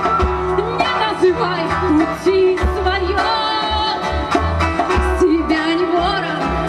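Folk-rock band playing live: drums and bass guitar keep a steady beat under a wavering melody line and layered guitar and wind parts.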